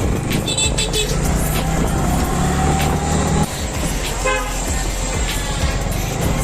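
Vehicle horns honking over engine and road noise in traffic: one long horn note, then a short beep a little past the middle.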